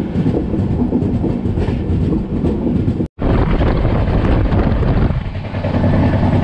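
Passenger train running at speed, heard from an open coach door: a loud, steady rumble of wheels on rails. It breaks off for an instant about three seconds in.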